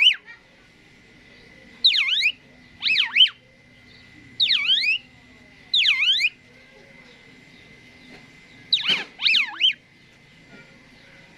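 Asian pied starling calling: a series of loud whistled notes, each swooping down and back up, about six in all, with a pause of a couple of seconds before the last two.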